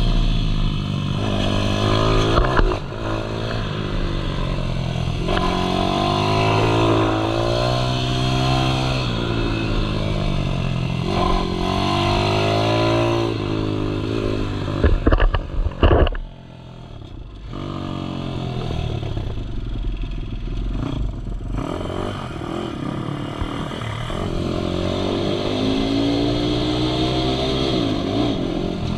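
Malcor Racer R 155cc pitbike's single-cylinder engine running hard around a track, its pitch repeatedly rising and falling as it accelerates, shifts and slows. About halfway through there is a brief burst of loud clattering. The engine then drops to a quieter, low note for several seconds before revving up again.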